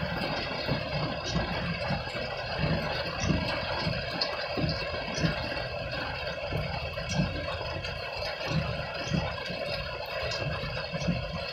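Heavy rain pelting the windows and roof of a vehicle: a dense, steady hiss with scattered sharp drop hits on the glass and irregular low thumps.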